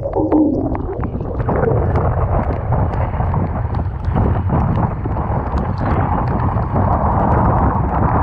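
Typhoon-force wind buffeting the microphone over rough sea and crashing waves, a loud, steady rumble with scattered sharp ticks.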